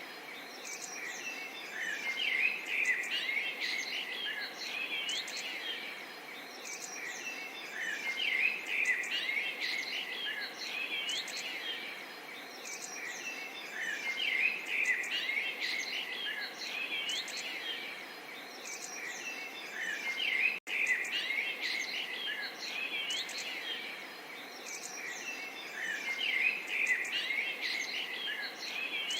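Small songbirds chirping and twittering in busy bursts that swell about every six seconds, over a steady soft murmur of running water. The sound drops out for an instant about two-thirds of the way through.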